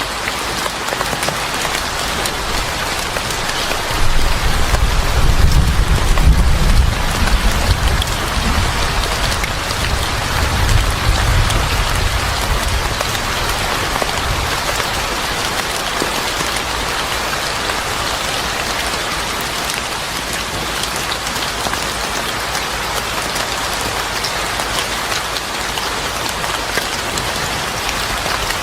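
Steady heavy rain falling and pattering on surfaces. A low rumble of thunder rolls in about four seconds in, swells twice and fades out by about a third of the way through.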